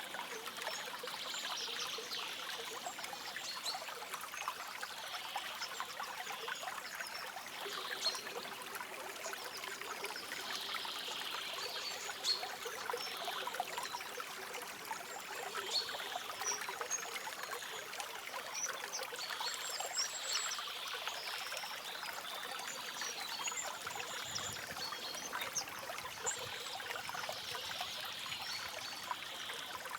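A stream trickling with a steady, watery burble full of small splashes. Now and then a bird gives faint, short, high chirps.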